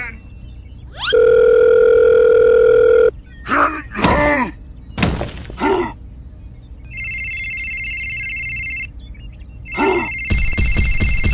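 A steady electronic tone for about two seconds, a few short squeaky cartoon voice sounds, then a telephone ringing in two long warbling rings.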